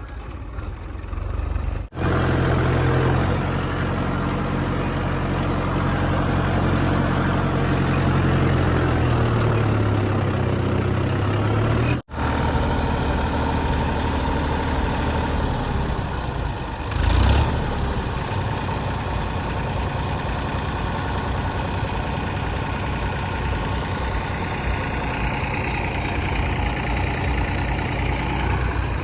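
Heavy diesel engine running steadily, its pitch shifting for a moment under load, broken by two abrupt cuts. A short loud hiss sounds a little past halfway.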